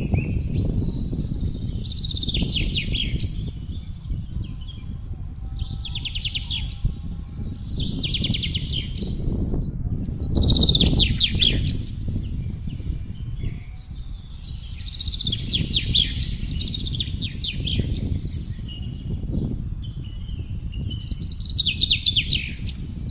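Wind blowing in gusts, rising and falling, while songbirds sing about six bursts of rapid trilled song a few seconds apart.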